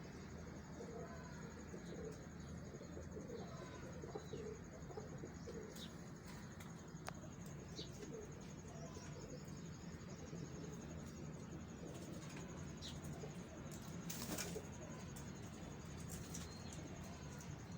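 Pigeons cooing softly among themselves over a low steady hum, with scattered clicks and wing flaps; one louder flutter of wings comes late on.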